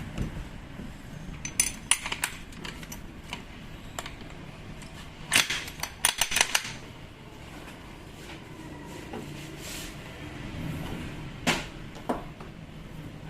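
Metal parts and hand tools clinking and knocking against each other on a workbench while a rotary hammer is taken apart: scattered sharp clicks, some with a brief metallic ring, in three clusters.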